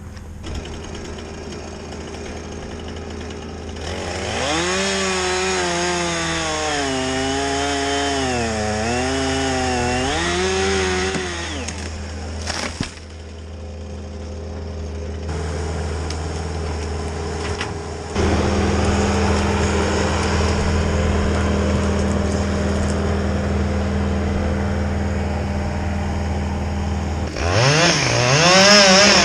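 Chainsaw running under load, its engine pitch dipping and recovering as it cuts into the wood, over the steady low running of another engine. Near the end the saw revs up again.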